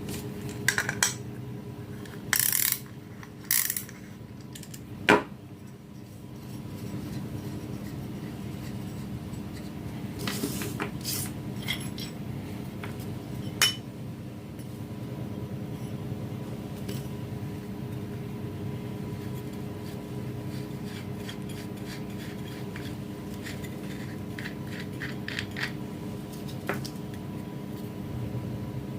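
Small metal parts and tools being handled during the repair of a hand-held can seaming key: scattered clinks, knocks and scrapes of metal on metal, with a sharp knock about five seconds in. A steady low hum runs underneath.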